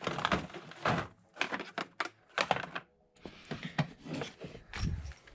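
Irregular handling noises: a quick string of knocks, clatters and rustles as parts are rummaged through and picked up.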